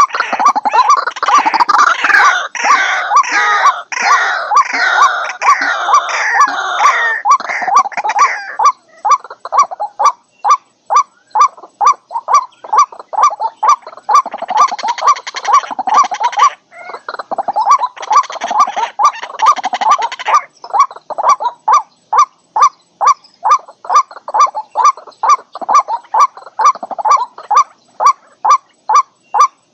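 White-breasted waterhen calling: a dense, overlapping jumble of calls, then a long, even series of short repeated notes about two or three a second, broken twice by more bursts of the jumbled calling.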